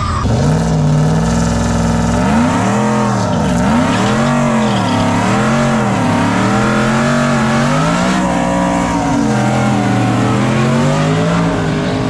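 Drag-racing engine being revved up and down over and over, its pitch rising and falling about once a second.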